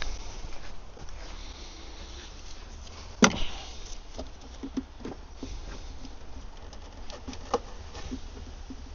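Rain patters steadily while hand tools and metal parts click and knock in the engine bay, with one sharp knock about three seconds in and a few lighter clicks after it.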